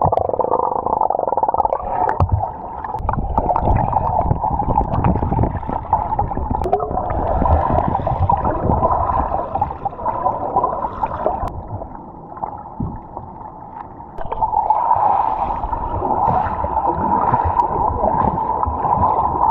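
Underwater audio from a GoPro submerged in a river: muffled rumbling and bubbling of water with scattered knocks, dipping quieter for a couple of seconds past the middle.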